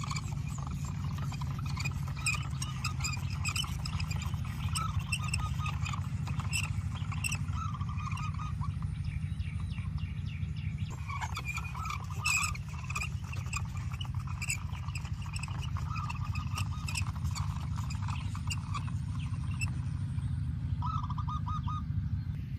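Birds chirping over a steady low hum, with a quick trill near the end.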